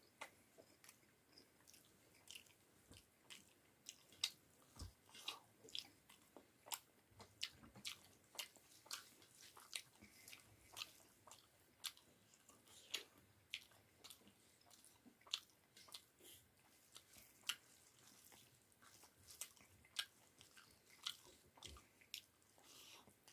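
A person chewing and eating a meal of rice, dal and potato pakoras close to the microphone, with a string of short, moist mouth clicks and smacks at about one or two a second.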